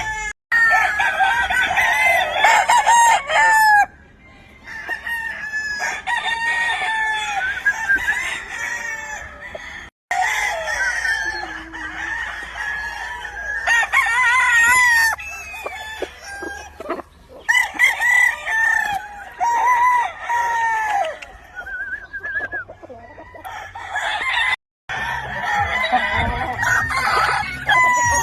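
Many gamefowl roosters crowing, their calls overlapping one another, with hens and roosters clucking in between. The sound breaks off briefly three times, at edits.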